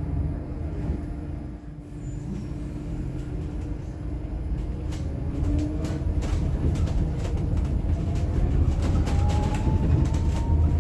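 Electric bus's traction motor whine over a low road rumble; the whine climbs steadily in pitch from about halfway as the bus accelerates. Short rattles and clicks come in over the second half.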